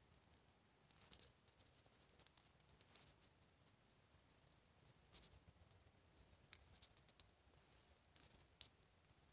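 Faint, irregular clicks and scratching in small clusters over near silence.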